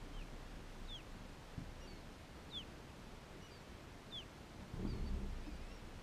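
A bird calling in short, high, downward-sliding chirps, one about every second and a half, over a steady low wind-like hiss. A low bump or rumble comes near the end.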